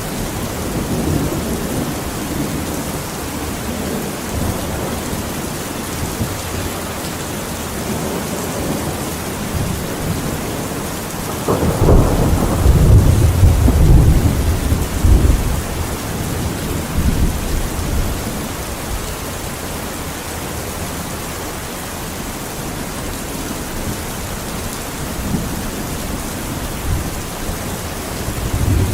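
Steady heavy rain with rolling thunder: a low rumble swells about twelve seconds in and rolls on for three or four seconds, with smaller rumbles before and after.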